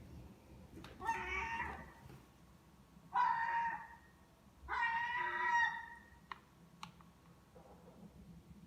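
Seagull giving three short, nasal "ah" calls, each under a second long and about two seconds apart, while it is being hand-fed.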